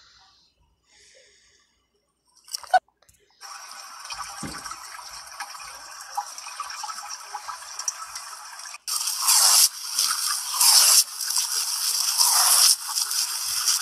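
A tap running steadily onto a wet cat for about five seconds, after a short sharp click. Then a louder hissing rush of water takes over, swelling and fading several times.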